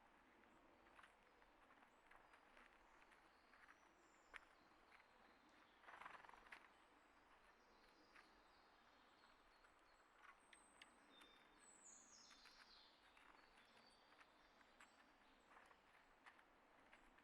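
Faint outdoor ambience of wild birds, with brief high chirps and one falling call about twelve seconds in, scattered soft clicks and a short rustle about six seconds in.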